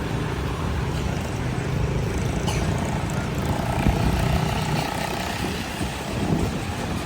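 Wind buffeting the microphone, a continuous low rumble that keeps rising and falling, with a faint steady tone in the middle for a second or two.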